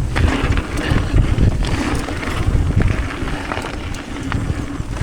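Mountain bike riding down a dirt trail: wind buffeting the microphone over a steady tyre rumble, with sharp clicks and rattles from the bike now and then.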